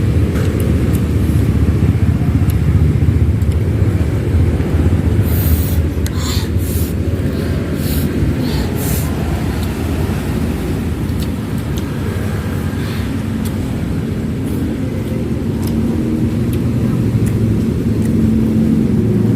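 Steady rumble of road traffic passing close by, with a few short clicks around the middle.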